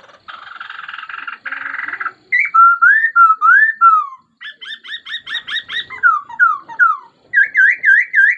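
Laughingthrush singing: a harsh rasping chatter for the first two seconds, then loud, clear whistled phrases of rising and falling slurs, a quick run of repeated notes, a few descending slurs and, near the end, a string of short rising notes.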